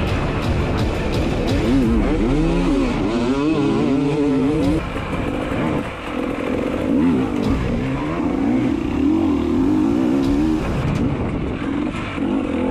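Dirt bike engine revving, its pitch rising and falling again and again as if the throttle is worked through a trail section, with a short drop in loudness about six seconds in.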